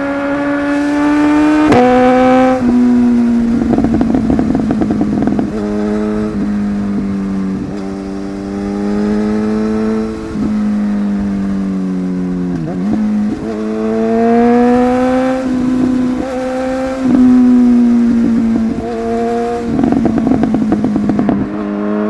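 Inline-four superbike engine pulling under load, its pitch climbing and then dropping in sudden steps as it shifts through the gears, over steady wind noise.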